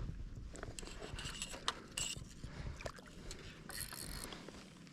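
Irregular knocks and clicks of kingfish bumping against a plastic fishing kayak's hull and the fishing line, with a few short raspy bursts.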